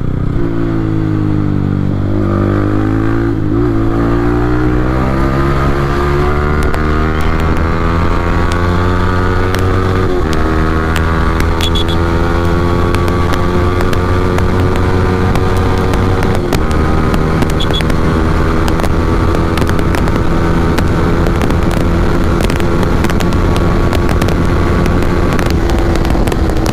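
Yamaha R15 V3's 155 cc single-cylinder engine running through an aftermarket Akrapovic exhaust while being ridden, its pitch rising steadily for about the first ten seconds and then holding nearly steady, with two brief breaks in the note.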